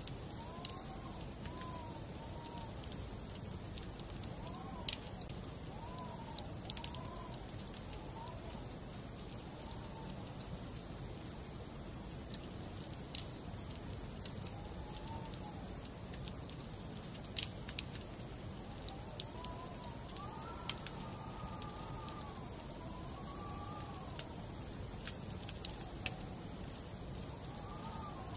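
Wood fire burning in a fireplace: a steady hiss with frequent sharp, irregular crackles and pops from the burning logs. Faint, wavering whistle-like tones come and go in clusters over it.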